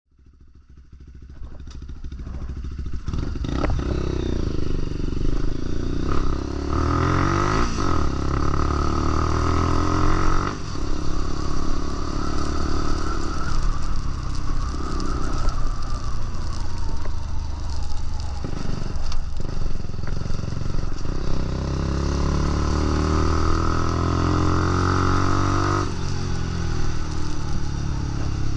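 Lexmoto LXR 125's single-cylinder four-stroke engine revving as the bike accelerates and shifts up through the gears, its pitch climbing and then dropping at each change. The sound swells up over the first few seconds.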